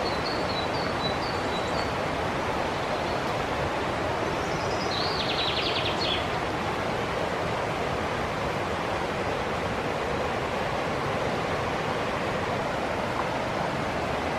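River water rushing steadily, with a few short bird chirps in the first couple of seconds and a brief bird trill about five seconds in.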